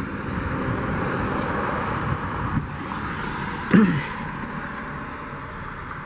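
Steady wind rushing over the microphone outdoors, with a brief falling tone about four seconds in; the rush eases a little after it.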